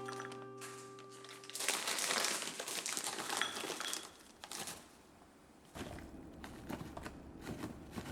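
A bag or packaging crinkling and rustling for about two seconds, starting under two seconds in, over soft background music.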